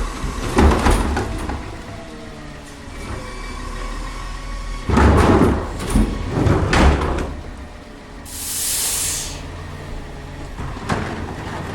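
Garbage truck at work: a CCC LET2 Heil split-hopper refuse truck's engine running, with loud clattering and banging as trash is dumped into the hopper about halfway through, then a short burst of air hiss.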